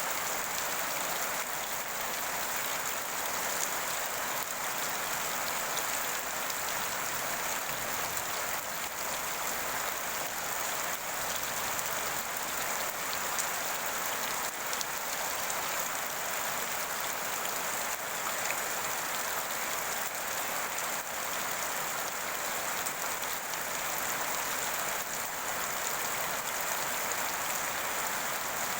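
Steady rain falling on a surface, an even hiss of many drops with faint scattered ticks, no change in intensity.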